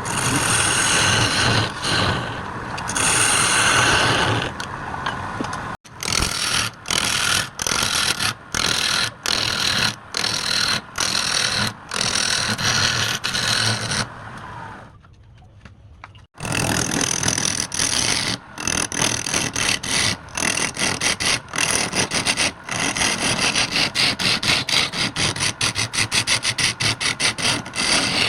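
Woodturning tool scraping and cutting into wood spinning on a lathe, in runs broken by many brief gaps, with a quieter stretch about halfway through.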